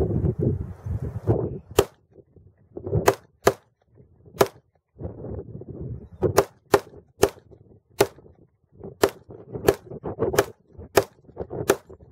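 Glock 21 pistol firing .45 ACP: about a dozen single shots at an uneven pace, some less than half a second apart, others nearly two seconds apart.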